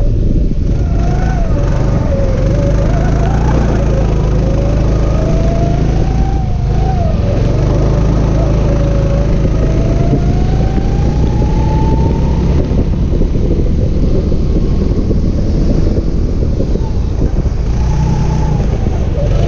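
Go-kart engine running on track, its note repeatedly climbing and dropping with the throttle, with one long climb about twelve seconds in. A steady rush of wind and spray noise from driving in heavy rain runs underneath.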